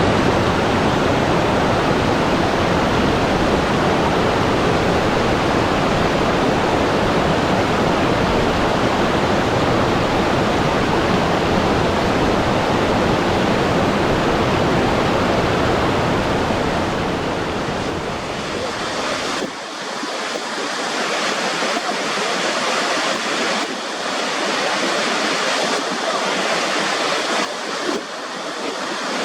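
Steady rush of water, full and deep. About two-thirds of the way through it changes abruptly to a thinner, hissier water sound with the deep rumble gone and small surges in it.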